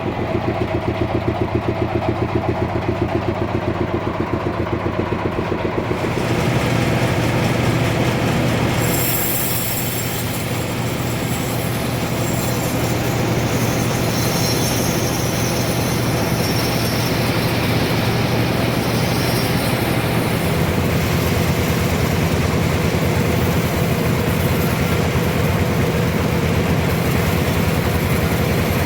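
Engine-driven sawmill running steadily; about six seconds in, a loud rushing hiss joins the engine note as the saw cuts into a trembesi (rain tree) log, and it carries on through the cut.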